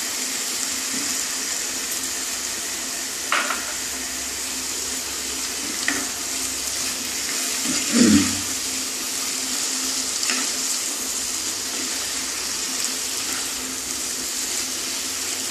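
Grated bottle gourd and prawns sizzling steadily in a kadai, with a few light knocks of a wooden spatula as they are stirred in. The loudest knock comes about eight seconds in.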